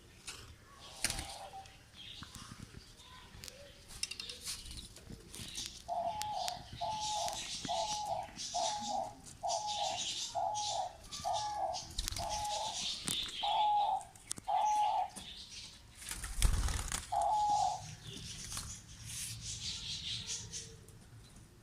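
A dove cooing: a quick run of about eleven short, even coos, then one more after a pause. A dull thump near the end of the run is the loudest sound.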